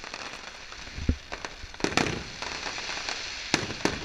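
Fireworks display: a low boom about a second in, then several sharp bangs with crackling in between.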